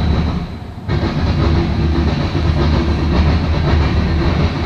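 Freight train cars, covered hoppers and tank cars, rolling past: a steady loud rumble of steel wheels on rail, with a brief lull a little under a second in.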